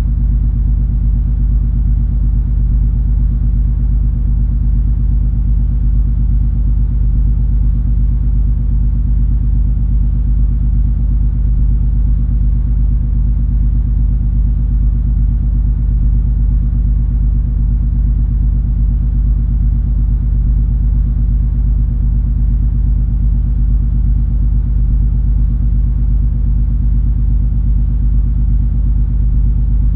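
Steady low drone of the cruise ferry MS Color Fantasy's engines and machinery, heard on board while under way. It holds several even low hums with no change in level.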